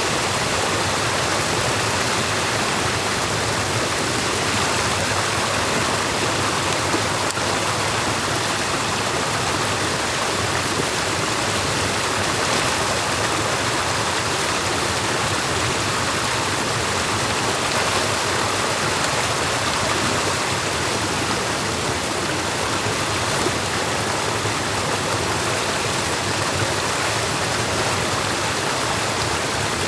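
Steady rush of stream water flowing over and through a beaver dam.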